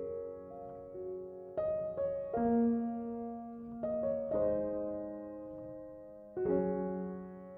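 Soft background piano music: slow, sustained chords struck every second or so, each fading away.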